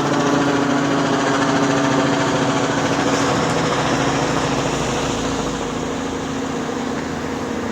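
Helicopter engine and rotor running steadily overhead, a droning hum that eases off a little in the second half as it moves away.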